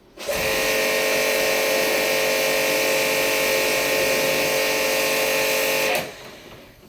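A small electric motor running at a steady speed with a steady whine, starting abruptly just after the start and cutting off suddenly about six seconds in.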